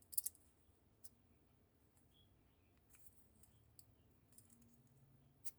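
A few light clicks and faint ticks of small plastic parts being handled as a car door lock actuator is taken apart, with a couple of sharper clicks just after the start and one near the end.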